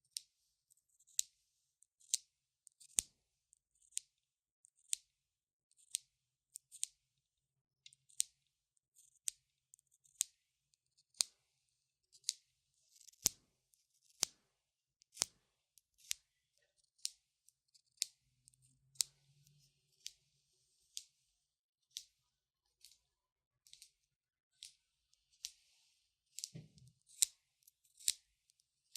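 Long natural fingernails making sharp, light clicks, irregularly spaced at about one or two a second.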